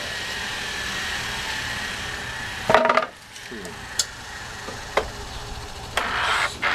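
Power saw blade ripping a pine board, with a steady whine for about two and a half seconds. A loud clatter comes just under three seconds in, then the sound drops to scattered knocks of wood being handled.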